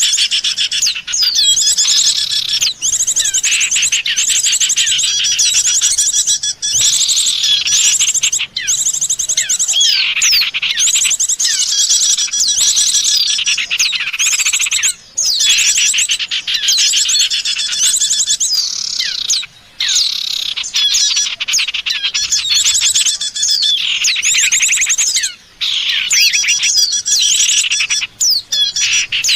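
Bird-lure recording of small songbirds chirping loudly and without let-up: fast runs of high notes mixed with quick downward-sliding calls, with brief pauses every few seconds.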